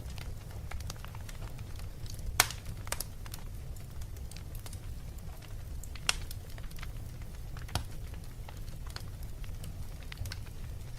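Fireplace fire crackling over a steady low rumble, with scattered sharp pops; the loudest come about two and a half seconds in and again about six seconds in.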